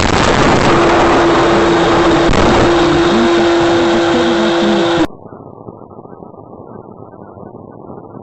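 Loud vehicle and road noise with a steady mid-pitched tone through most of it. About five seconds in it cuts off abruptly to a much quieter, muffled engine-like rumble.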